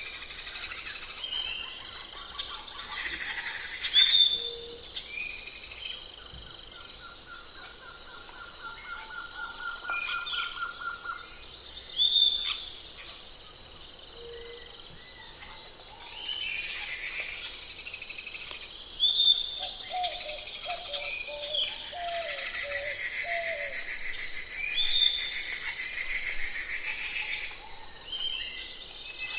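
Several birds calling and chirping, short sharp calls overlapping one another, with a fast even trill lasting a few seconds about a quarter of the way in.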